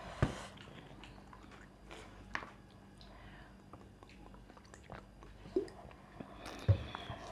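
A person chewing food close to the microphone: wet mouth sounds and bites, with scattered sharp clicks. The loudest are just after the start and near the end.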